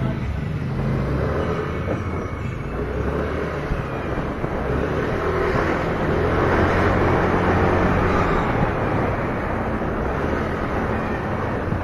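Wind buffeting the bare SJ8 Air action camera's built-in microphone, its holes taped over with scotch tape, over a motorcycle running at speed. The wind swells louder about six seconds in, then eases.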